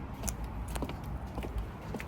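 Footsteps at a walking pace, sharp steps about every half second, over a low steady rumble.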